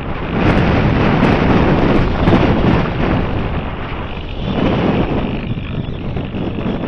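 Wind buffeting the microphone: a loud, gusting rumble that swells and eases.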